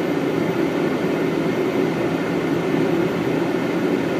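Steady rush and hum of a Boeing 777 flight deck on final approach, from airflow and cabin air conditioning, with no distinct events.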